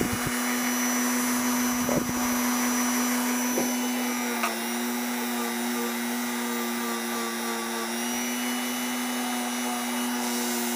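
Dremel rotary tool running at a steady speed, a constant whine that does not change in pitch.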